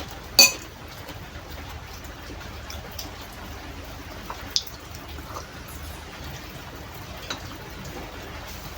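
Eating sounds of a soup meal: a spoon clinking against a bowl, with one sharp clink about half a second in and a few lighter ones later, over a steady low hiss.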